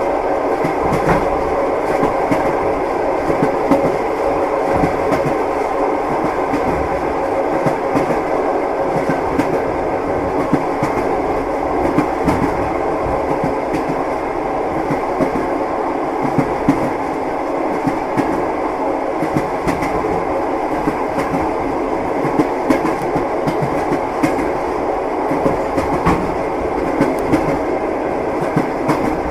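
Train running steadily, its wheels knocking over the rail joints in a continuous clickety-clack over the rumble of the carriage.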